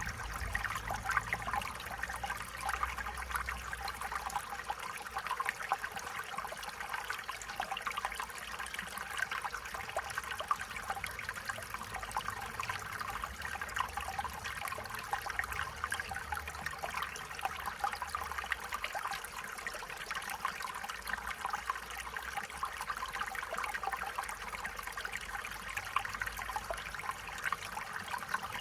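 Small stream flowing and trickling over stones, a steady bubbling babble.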